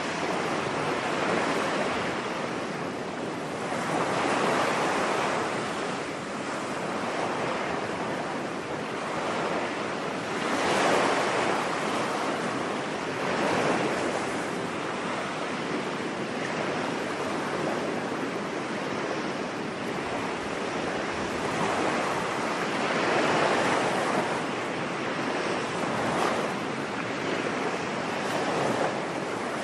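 Ocean surf on a beach: waves breaking and washing in as a steady rush that swells and eases every few seconds.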